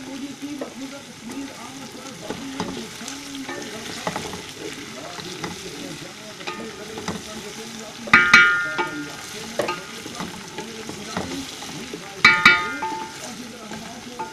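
A spatula stirring chicken pieces frying with onions in an aluminium pot, with steady sizzling and small scrapes of the spatula on the metal. Twice, about four seconds apart, there is a louder scrape that rings off the pot.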